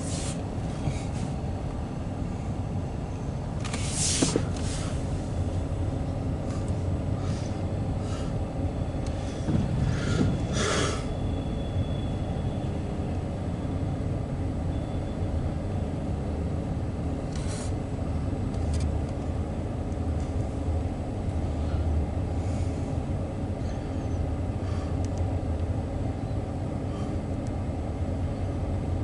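Union Pacific double-stack intermodal freight train rumbling steadily across an elevated steel bridge, heard from inside a vehicle. A few sharp knocks sound over it, about four seconds in, around ten seconds in and again near the middle.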